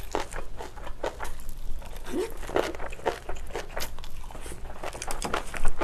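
Close-miked crunching and wet chewing of spicy napa cabbage kimchi: irregular crisp bites and mouth sounds.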